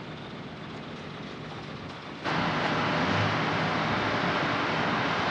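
Heavy diesel earthmoving machinery running steadily, with a hiss-like noise over it; the sound jumps sharply louder about two seconds in.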